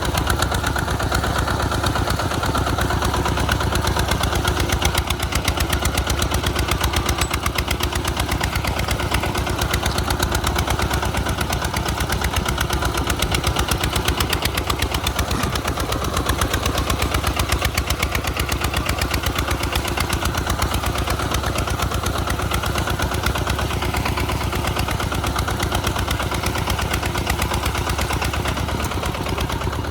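Tractor's Kubota RT140 Plus single-cylinder diesel engine running steadily under load, with a fast, even chugging beat.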